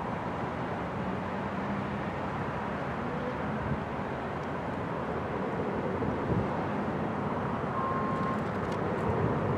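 Jet airliner engines making a steady rush that grows gradually louder.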